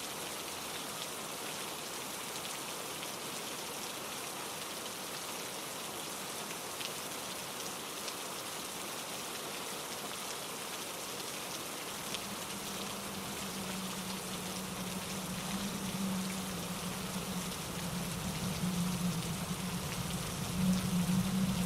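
Steady rain falling on leaves and surfaces, a dense even hiss with scattered individual drops. About halfway through, a low rumble comes in and builds, growing louder toward the end.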